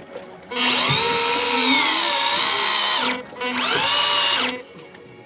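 Electric fishing reel motor winding in line under heavy load, its whine wavering in pitch as the shark pulls. It runs for about two and a half seconds, pauses briefly, then runs again for about a second.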